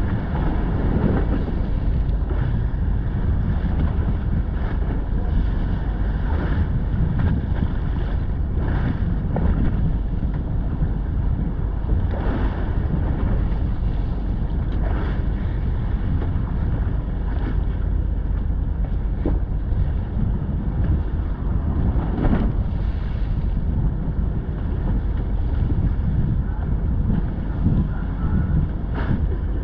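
Wind buffeting the microphone aboard a fishing boat at sea: a steady low rumble with brief louder gusts every few seconds.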